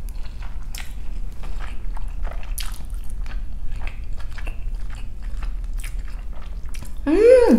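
Close-miked mouth sounds of chewing chicken pad thai noodles: a steady run of small wet clicks and smacks. Near the end comes a short hummed "mmm" whose pitch rises and then falls.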